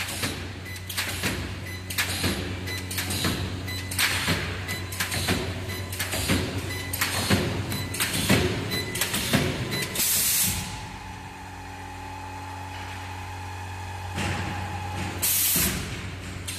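Multi-spot welding machine for pallets working: a quick series of knocks and clacks over a steady electrical hum, then compressed air hissing out in two short bursts, about ten seconds in and near the end.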